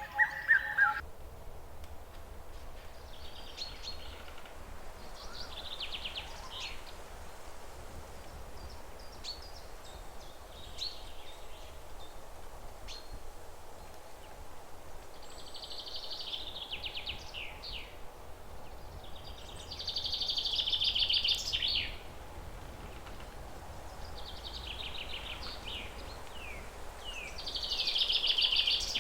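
A bird singing short, buzzy trilled phrases that repeat every few seconds, the loudest two about two-thirds of the way through and near the end, over a steady low background rumble.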